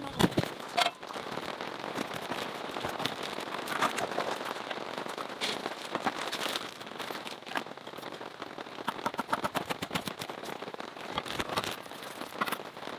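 Polyethylene stretch film crackling irregularly, with rain pattering.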